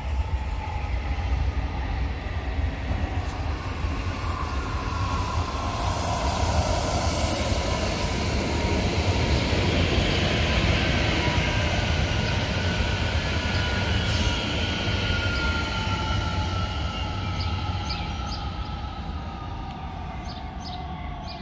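Red DB regional electric multiple unit passing close on the near track and running on into a tunnel. Its running noise builds to a peak about halfway and then fades, with a faint whine falling slowly in pitch.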